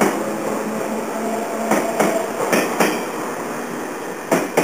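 JR West 113-series electric train running past, its wheels clicking over rail joints in close pairs over a steady rumble. The rumble fades as the last car moves away.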